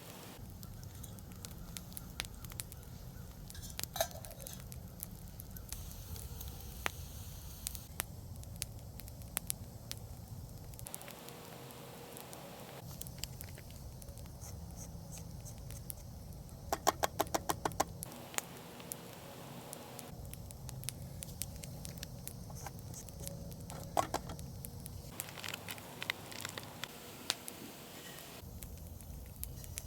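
Wood campfire crackling, with irregular pops and snaps and a quick run of sharp snaps about seventeen seconds in.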